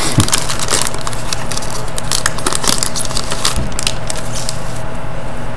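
Trading cards and a pack wrapper being handled: a run of small crackles and crinkling clicks that thins out near the end, over a steady low hum.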